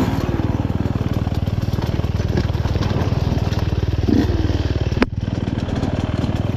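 Husqvarna dirt bike's single-cylinder engine idling with a steady, even thump, blipped briefly about four seconds in. A sharp click sounds about five seconds in.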